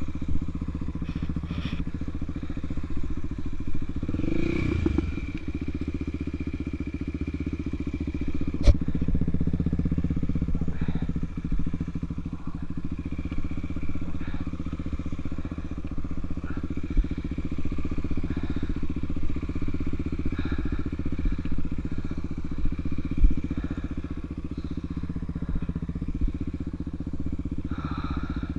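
Honda Tornado trail motorcycle's single-cylinder four-stroke engine running steadily while under way, with scattered clatter and one sharp knock about nine seconds in.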